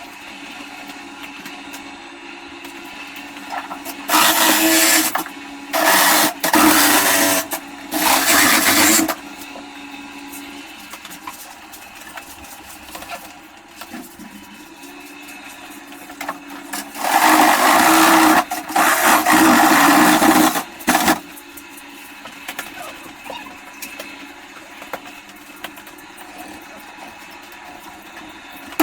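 Small electric motor, like a power tool's, run in short bursts: three runs of about a second each starting about four seconds in, then a longer run of about three and a half seconds later on. A steady hum continues between the runs.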